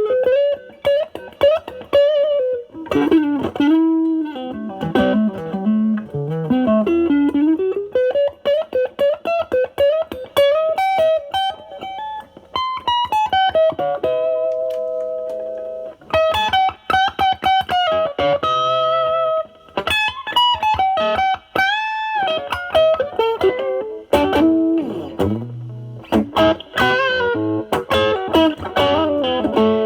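Semi-hollow electric guitar played through a Nobels ODR-1 overdrive pedal, with drive around 10 to 11, into a Marshall Valvestate amp's clean channel: improvised single-note lead lines with slides, string bends and vibrato on held notes, turning to fuller chords near the end.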